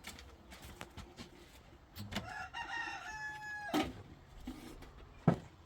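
A rooster crowing once, about two seconds in, ending on a long held note. Near the end comes a single sharp knock, louder than the crow.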